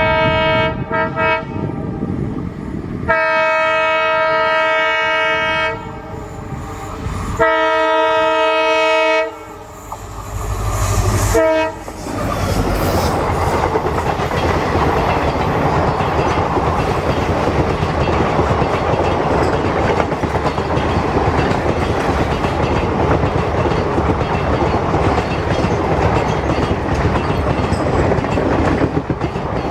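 EMD WDP4-class diesel locomotive sounding its multi-note air horn in two long blasts, then a short toot as it passes with a rising engine rumble. Behind it a long train of coaches clatters steadily past over the rail joints.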